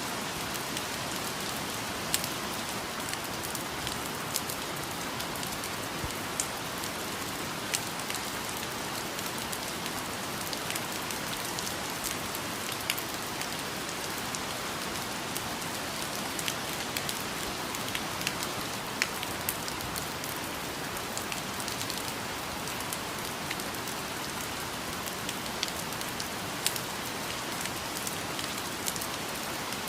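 Steady rain falling on a rainforest canopy, an even hiss with scattered louder drops ticking on leaves.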